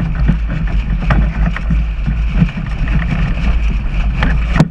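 Strong wind buffeting the microphone of a camera on a 420 sailing dinghy, with irregular slaps and splashes of water against the hull. A sharp knock just before the end is the loudest single sound.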